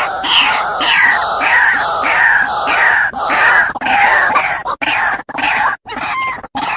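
White-breasted waterhen calls played as a lure recording: loud, harsh notes repeated about twice a second, each falling in pitch. Near the end the calling breaks up into short clicks and brief rising notes.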